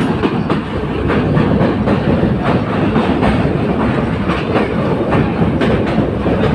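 Steady loud rumble with frequent sharp clicks over it, like a heavy vehicle running.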